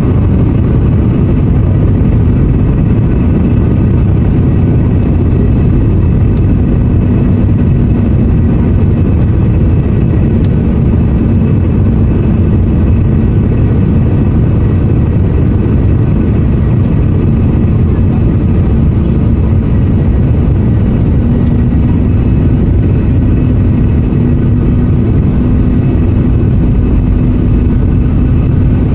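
Airliner cabin noise on the approach to landing: engines and airflow make a loud, steady, deep rumble with a steady low hum over it.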